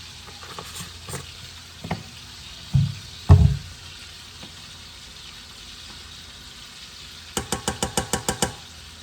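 Kitchen handling sounds over a pot of red beans cooking on the stove: a couple of dull knocks about three seconds in, then a quick run of about ten sharp taps near the end, over a faint steady sizzle.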